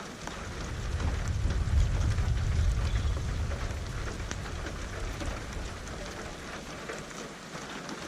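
Steady rain with many small drops pattering on a surface. A low thunder rumble swells in just after the start, peaks after two or three seconds and slowly dies away; another rumble begins at the very end.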